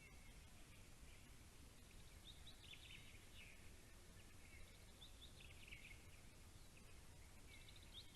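Faint songbirds singing short chirpy phrases every couple of seconds, over a low steady rumble of background noise.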